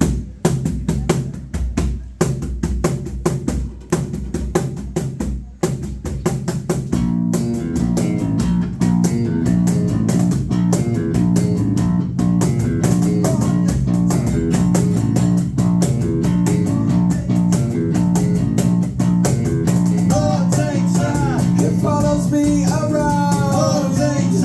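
Live band playing the instrumental intro of a rock song: drums keep a steady beat, guitar chords fill in about seven seconds in, and a higher melody line comes in near the end.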